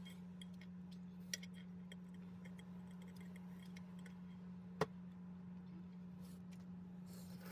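Scattered light clicks and taps of eating utensils against dishes during a meal, with one sharper click a little before five seconds in, over a steady low hum.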